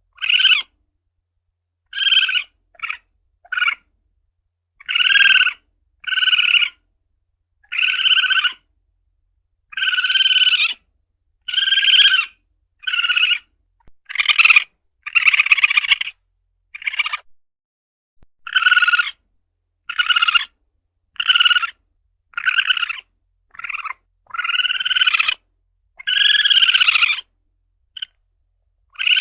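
Palm civet (luwak) calling: a long series of short, harsh, pitched calls, about one every second, some single and some in quick pairs, with silence between them.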